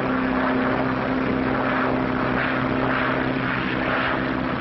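Piston engines of a propeller airplane droning steadily in flight, heard on an old film soundtrack.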